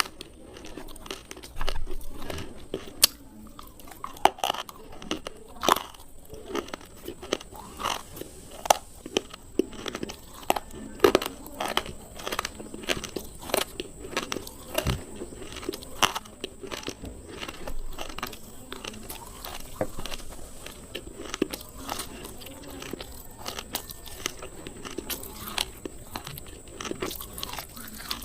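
Close-up biting and chewing of slate pencils, the hard chalky stone sticks breaking between the teeth in sharp, separate crunches, one or two a second.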